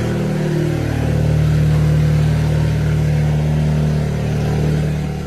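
Alfa Romeo Giulia 2.0 turbo four-cylinder, fitted with a Trofeo Ultimo+ exhaust and DiCorse downpipe, idling high and loud just after a cold start. It is a steady drone, with a brief dip in pitch about half a second in.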